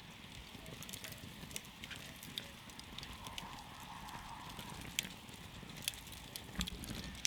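Wood campfire burning, with irregular crackles and sharp pops over a steady low rumble of the flames.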